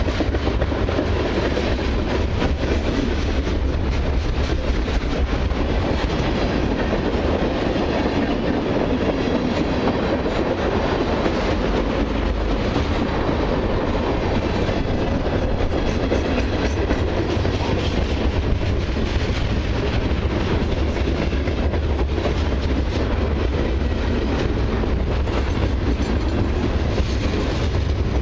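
Long CN mixed freight and autorack train rolling steadily past: a continuous rumble of cars with a rapid clatter of wheels over the rail joints.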